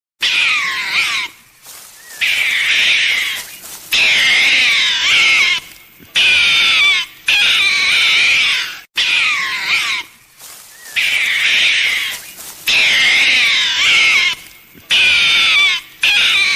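A loud, high-pitched animal call, wavering in pitch, repeated about eight times with short gaps between.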